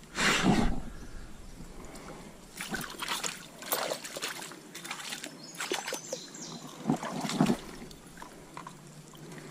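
Water splashing and sloshing in a trout stream, with a louder splash about half a second in and a run of shorter splashes after it.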